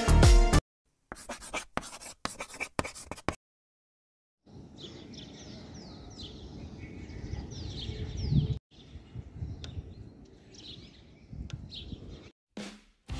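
Birds chirping in short, quick falling calls over a steady outdoor background, for most of the second half. Earlier, a run of short sharp clicks.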